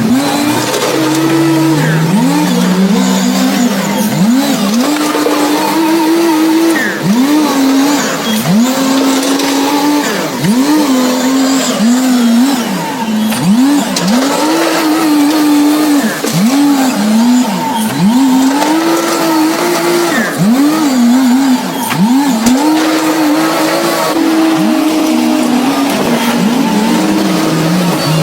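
Heavy diesel engine of earth-moving machinery revved up and down over and over, about once a second. Each rev climbs quickly, holds briefly, then drops back.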